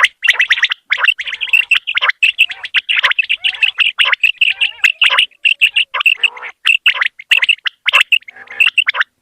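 Common quail calling: a rapid, stuttering run of short high notes, several a second.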